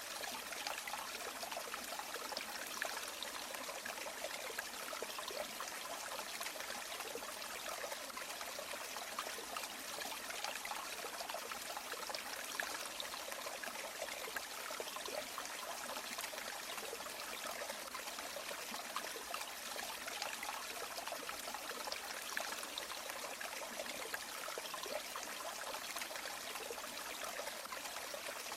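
River water flowing: a steady, even rush that holds unchanged throughout.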